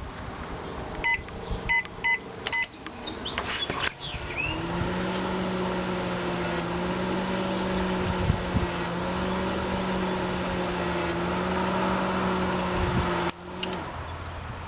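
Panasonic microwave oven keypad beeping four times as buttons are pressed, then the oven starting up and running with a steady, slightly wavering hum while heating water, stopping abruptly near the end. This is the oven that gives off smoke as it runs.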